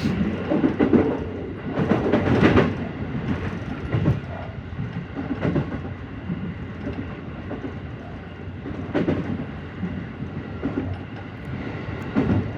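JR Central 313 series electric train running at speed: a steady rumble of wheels on rail, with occasional sharp clacks over rail joints, the loudest about two seconds in.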